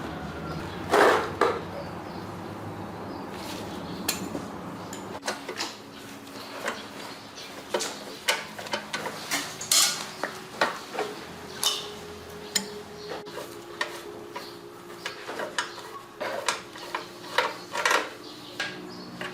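Metal tools and metal parts clinking, tapping and knocking irregularly as they are handled, with a louder knock about a second in.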